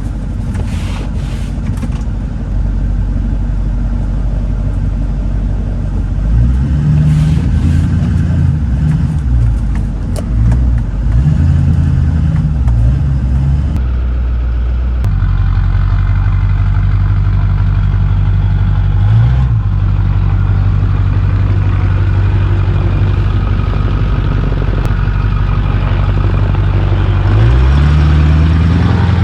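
Diesel pickup truck engine running, revved up and falling back several times, with a steady low rumble between the revs.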